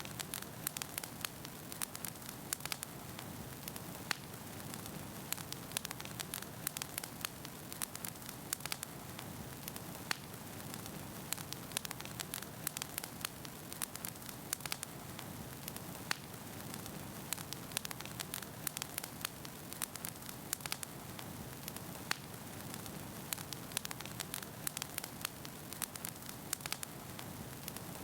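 Wood fire burning in a fireplace: a steady low rush of flame with frequent sharp crackles and pops from the burning firewood.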